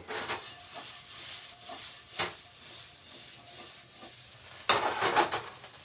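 Diced potatoes sizzling as they fry in a nonstick skillet on a portable electric burner. The food is stirred in the pan, with a sharp click about two seconds in and a quick run of clicks and scrapes near the end.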